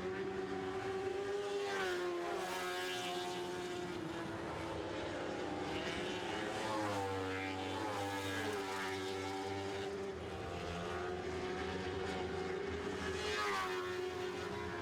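Lightning Sprint race cars with motorcycle engines racing on a dirt oval. Several engines are heard at once, their pitch dipping and climbing again every few seconds as they back off and accelerate around the track.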